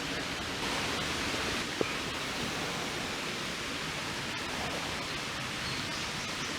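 Steady rain falling, an even hiss, with a single sharp tap about two seconds in.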